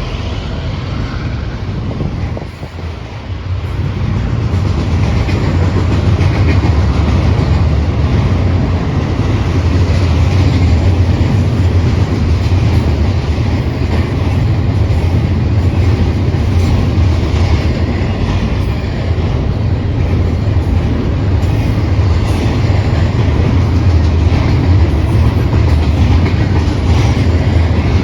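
Union Pacific westbound intermodal freight train rolling past with a steady, loud rumble of wheels on rail. It dips briefly about three seconds in, then runs on steady and a little louder.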